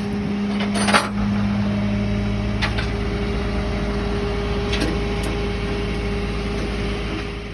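A vehicle engine running steadily at idle, with a few light knocks.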